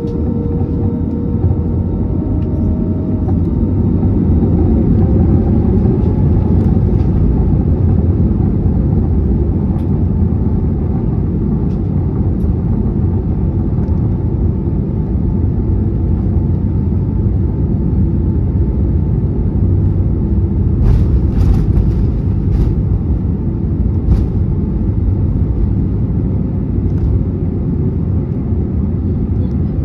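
Airbus A320neo cabin noise during takeoff and climb: a loud, steady rumble and rush of engine and air noise that swells over the first few seconds and then holds. A faint engine tone rises slightly and fades early on, and a few faint clicks come about two-thirds of the way through.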